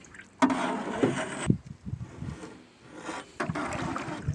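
Wooden rubbing and scraping with a few sharp knocks from oars working against a rowed wooden boat loaded with bamboo. A scraping stretch starts suddenly about half a second in, and single knocks follow near the middle and toward the end.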